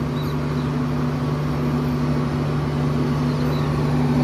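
Indian passenger train rolling slowly away from a halt, heard from the open coach door: a steady rumble with a steady low hum, growing slightly louder near the end.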